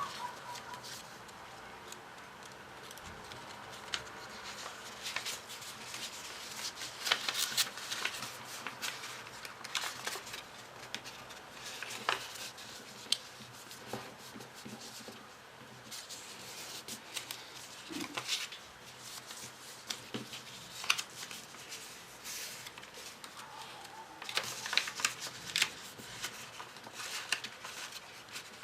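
Paper being handled and folded for modular origami: scattered rustles, crinkles and light clicks, busiest about seven seconds in and again near the end.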